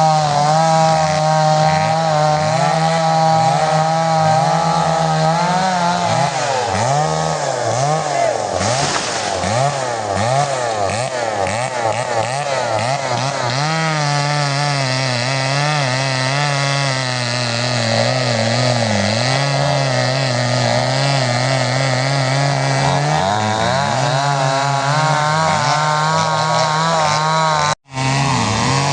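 Two-stroke chainsaw running under load while cutting into a tree, its engine pitch wavering and dipping again and again as the chain bites into the wood. The sound drops out for an instant near the end.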